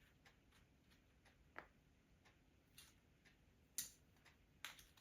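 Faint, fairly regular ticking, about three ticks a second, with a few sharper metal clicks, the loudest near the end. The sound comes from small metal hose clamps being worked around plastic saddle clamps on a charging cable.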